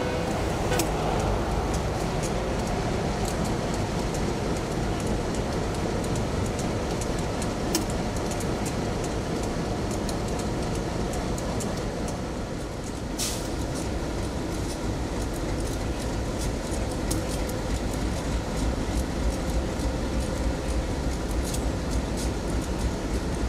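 A train rolling past at speed: a steady rumble of wheels on rail with a running series of sharp clicks from the wheels.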